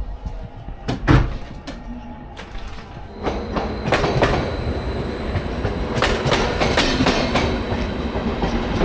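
Passenger train carriage running on the rails, its wheels knocking over rail joints in an irregular clatter. There is one sharp knock about a second in and denser clattering over the second half, with a faint high squeal from the wheels.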